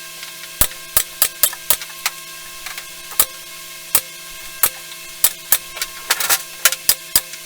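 Sharp clicks and knocks at irregular intervals, about two a second with a quick cluster near the end, from tools and parts being handled while building a wooden or metal platform, over a faint steady hum.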